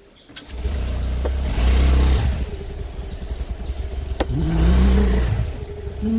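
A vehicle's engine starts about half a second in and runs with a low rumble, revving up twice with a rising pitch.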